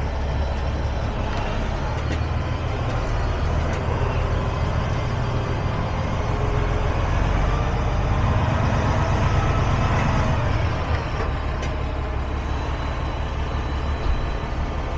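Semi truck's diesel engine running at low speed. It grows a little louder through the middle and eases off about two-thirds of the way through, with one short knock near the end.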